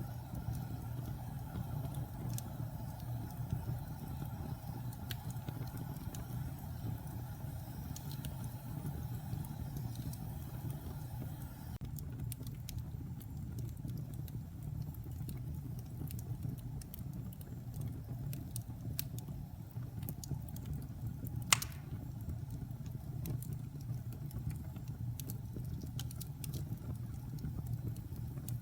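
Wood fire burning in a fireplace: a steady low rumble of flames with scattered crackles of burning wood, and one sharp, louder pop about two-thirds of the way through.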